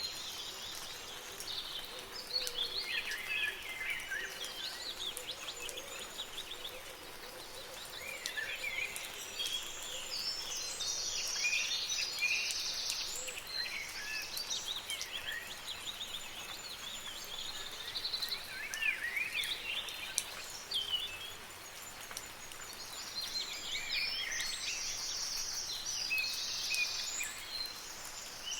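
Birds singing in clusters of quick chirps and trills, with short lulls, over a steady soft hiss of light rain.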